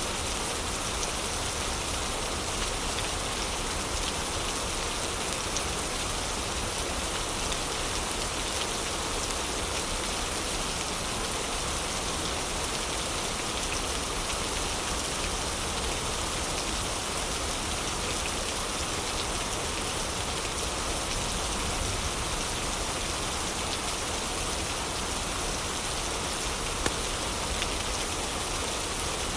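Heavy rain falling steadily, mixed with occasional small crackles from a fireplace and one sharper pop near the end.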